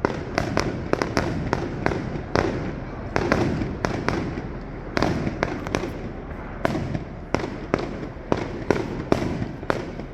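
Aerial fireworks bursting in a rapid barrage: sharp bangs two or three times a second over a continuous rumble of echoing booms.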